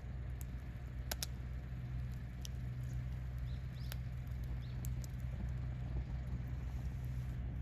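Wood campfire burning, with scattered sharp crackles and pops, the loudest pair about a second in, over a steady low rumble.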